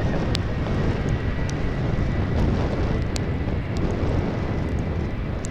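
Jet airliner engines rumbling, with a steady high turbine whine that edges slowly up in pitch. A few short sharp ticks sound here and there.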